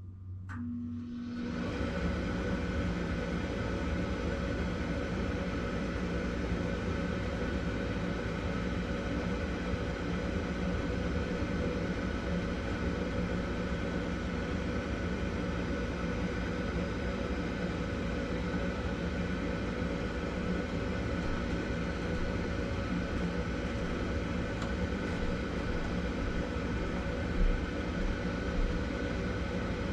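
Gas furnace starting up: a click, then its draft inducer motor spins up within about a second and runs steadily, a whooshing fan noise with a steady hum. Two short thumps near the end.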